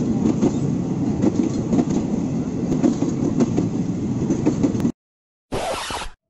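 A train running past with wheels clattering on the rails, loud and dense, cut off suddenly about five seconds in. After a moment's silence comes one short burst of hissing noise.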